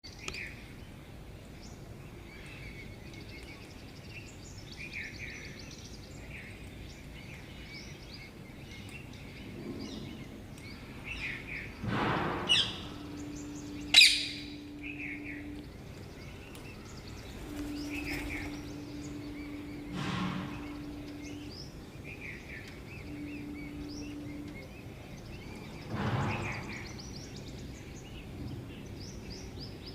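Parrots chirping steadily in short bursts, with a few louder calls and one sharp, loud sound about halfway through. A low steady hum comes and goes in the middle stretch.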